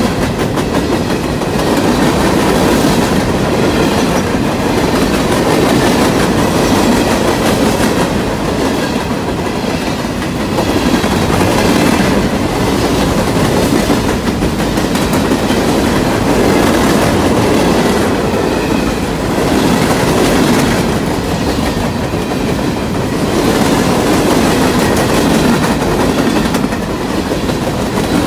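Freight train of coke hopper cars rolling past close by: a steady rumble of steel wheels on rail with a continual clickety-clack of wheels crossing rail joints, swelling and easing slightly as the cars go by.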